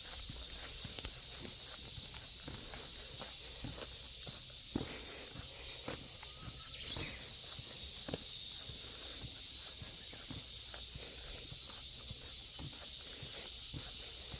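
A steady, high-pitched insect chorus droning without a break, with irregular footsteps on the ground underneath.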